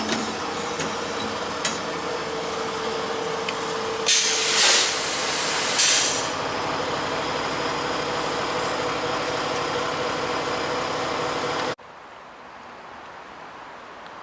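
Passenger train at a station platform, its running noise steady, with two loud hisses of air from the brakes about four and six seconds in. Near the end the sound cuts abruptly to a much quieter background.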